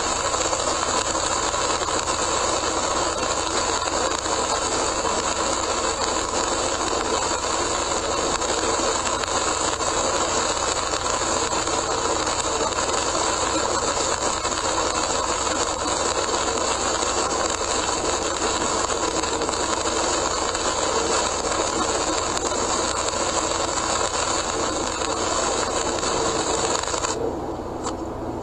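Steady hiss of heavy rain and tyre spray with the road rumble of a car driving on a wet expressway, picked up by a dashcam inside the car. Near the end the high hiss drops away for about a second, then returns.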